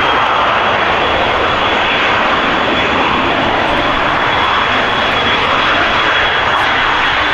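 Jet airliner's engines running at high power: a loud, steady roar with a high whine held level on top.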